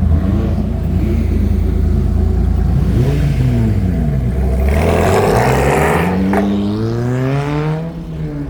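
A car engine revving and accelerating: its pitch rises and falls about three seconds in, a louder rush of exhaust comes about five seconds in, then the pitch climbs steadily as it pulls away.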